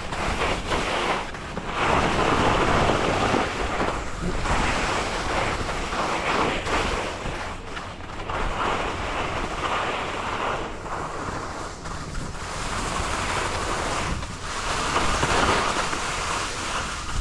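Skis sliding and carving on packed snow, a rushing scrape that surges and fades with each turn, mixed with wind buffeting the microphone.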